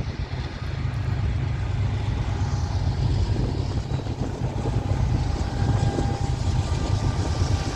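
Diesel freight locomotives running as a train approaches, a steady deep engine rumble that grows louder about a second in.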